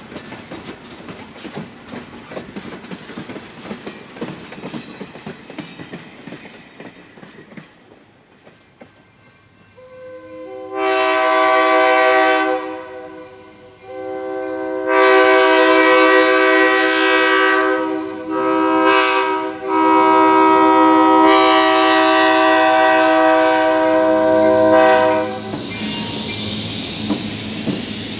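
Freight cars rolling past with wheels clicking over the rail joints. Then a diesel locomotive's multi-note horn sounds the grade-crossing signal: two long blasts, a short one and a final long one. As the horn stops, the locomotive passes close with its engine running and a hiss.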